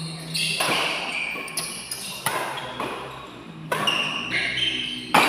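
Badminton rally: rackets striking the shuttlecock back and forth, sharp hits about every second to second and a half, each ringing out briefly. The hardest hit, likely a smash, comes near the end.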